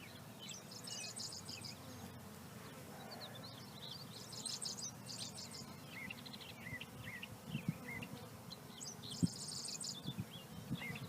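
Honey bees humming steadily from an open nuc colony, while a songbird sings a short trilled phrase about every four seconds, with chirps between. A few light knocks sound near the end.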